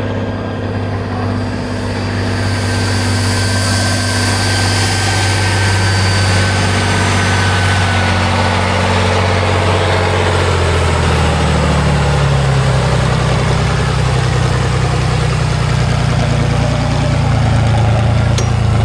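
Heavy off-road trial truck's engine running steadily, its note shifting about ten seconds in and growing a little louder near the end.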